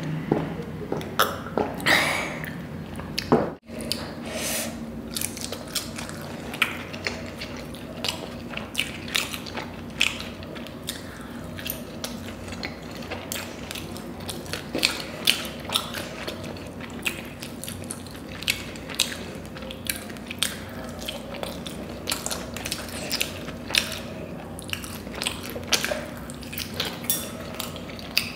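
Close-miked eating sounds: a person chewing spicy noodles with many sharp, wet mouth clicks, over a steady low hum.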